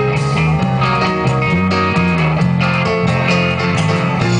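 Band playing an instrumental passage of a song without vocals, guitar to the fore over bass and a steady beat.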